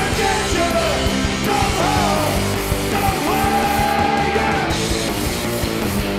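Rock band playing a loud punk rock song live, a voice singing held, sliding notes over the band.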